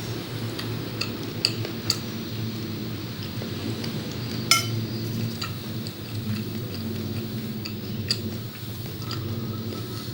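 Cutlery clicking and clinking against dishes while eating, with scattered light taps and one sharper clink about four and a half seconds in, over a steady low hum.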